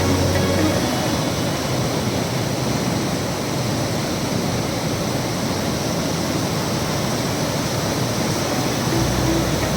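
Loud, steady rush of water cascading from an overflowing lake, like a waterfall.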